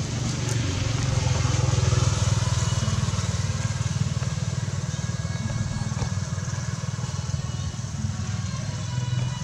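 A motor vehicle engine running, a steady low rumble that swells about a second or two in and then holds.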